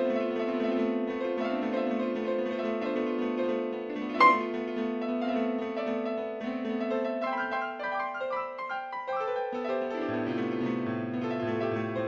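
Slow piano music: held chords with a melody moving above them, a sharp, bright accent about four seconds in that is the loudest moment, and a low bass line coming in near the end.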